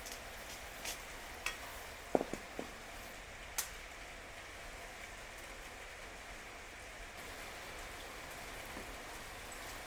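Wood fire crackling in a fire pit: a steady hiss with a few sharp pops, several of them close together about two seconds in.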